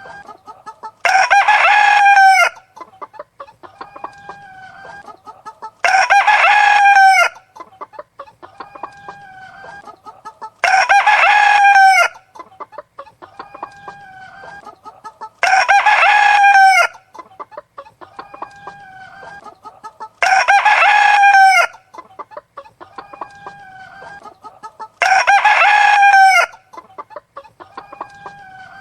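Rooster crowing six times, once about every five seconds, each crow lasting over a second, with softer chicken clucking between the crows. The crows and clucks repeat identically, as in a looped recording.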